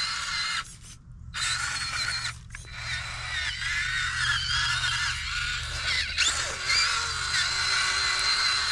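Electric motor and gearbox of a 1/10-scale FMS K5 Blazer RC truck whining in low gear, the pitch wavering up and down with the throttle; the whine cuts out briefly about a second in and again near two and a half seconds.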